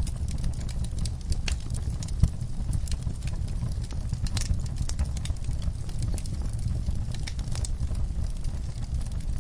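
Wood fire in a fireplace crackling, with irregular snaps and pops over a low steady rumble; one sharper pop about two seconds in.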